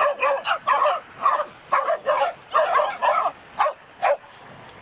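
Dogs barking: more than a dozen short barks in quick, uneven succession, breaking off shortly before the end.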